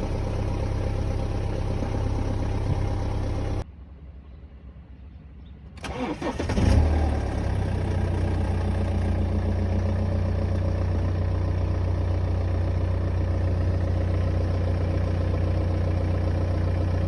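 BMW 318d's N47N four-cylinder diesel engine running, then switched off about three and a half seconds in; about two seconds later it is cranked, catches with a loud burst and settles into a steady idle. This start-up is where the owner hears timing-chain noise, which he puts down to worn chains, guides and the newer 24 mm tensioner.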